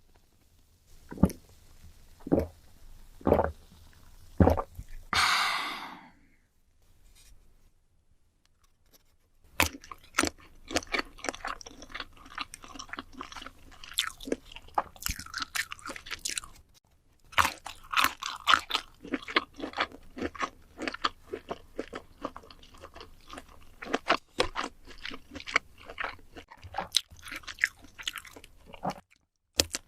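Close-up eating of sausages such as kielbasa: many crisp crunching bites and wet chewing sounds. It opens with four sharp knocks and a short hiss, then a few seconds of quiet before the steady crunching starts.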